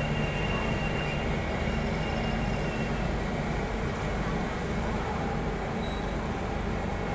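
KAI passenger train coaches rolling past on steel rails, a steady continuous rumble of wheels and running gear.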